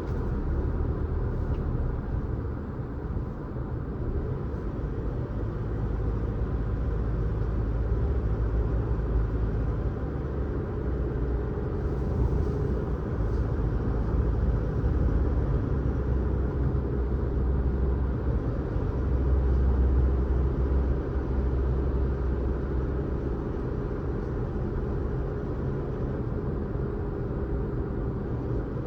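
Car driving along a road: a steady low rumble of engine and tyre noise that swells and eases a little at times.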